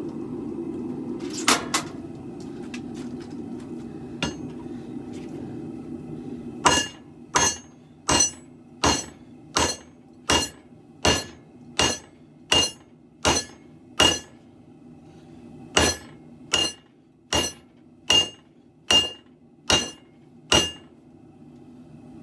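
Hand hammer forging a steel sword blade on an anvil: a couple of early blows, then two runs of evenly paced ringing strikes, about eleven and then seven, roughly one and a half a second with a short pause between, drawing the blade out thinner. A steady low hum runs underneath.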